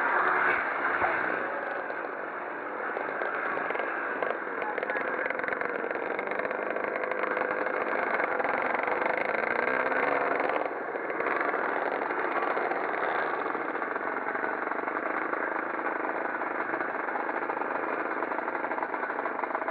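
Several classic pre-1965 motocross motorcycles racing, their engines running together and rising and falling in pitch as the riders open and close the throttle.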